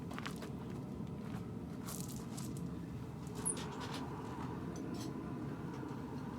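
Steady low rushing noise of a running forge, with a few faint light clicks and one sharper click about three and a half seconds in.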